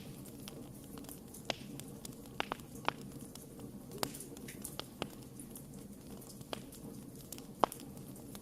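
Wood campfire burning with irregular sharp crackles and pops over a steady low hiss and rumble of flame; the loudest pop comes near the end.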